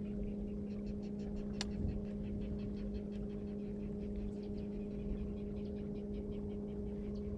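Electric trolling motor humming steadily with an even two-note drone. Over it runs a faint quick ticking, about five a second, with a single sharp click about one and a half seconds in.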